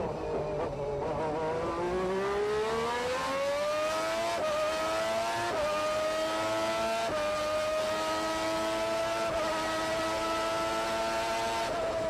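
McLaren MP4/4 Formula 1 car's Honda 1.5-litre turbocharged V6, heard onboard: revs fall low out of a slow corner, then climb steadily under full acceleration. Three quick upshifts come a second or so apart, and the engine holds high, steady revs flat out.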